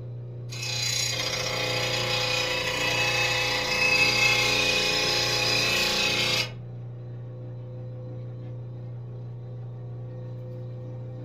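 Steel lawn mower blade ground against an RBG-712 blade sharpener's grinding wheel: a grinding noise that starts about half a second in, runs about six seconds and cuts off suddenly. It is a pass to take metal off the blade's heavy right side so that it balances. A steady low hum runs underneath.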